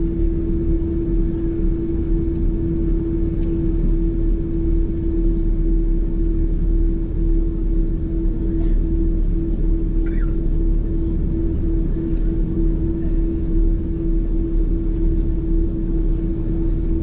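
Airliner cabin noise: the jet engines and cabin air system give a steady hum with one constant drone over a low rumble.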